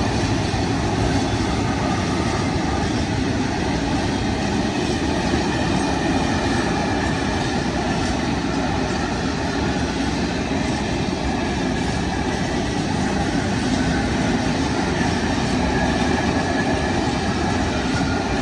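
Freight train of open wagons rolling past, a steady, continuous noise of wagon wheels running on the rails.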